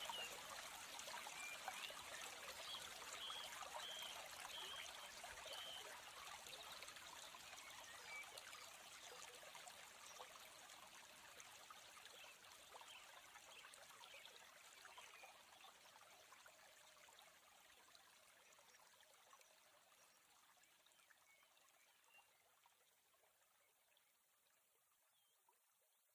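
Faint running water of a stream or trickle, with a few short bird chirps in the first few seconds, fading out gradually to near silence.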